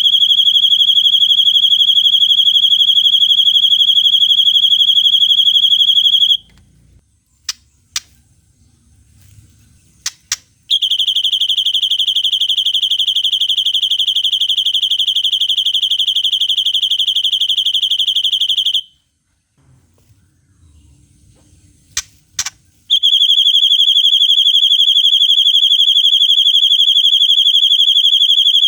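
White-rumped shama (murai batu) singing long, high, even trills, the imitated 'cililin panjang' long trill, each lasting several seconds. The first trill breaks off a few seconds in and a second starts near the middle, with a couple of quick, sharp whistled notes in each gap, and a third trill starts near the end.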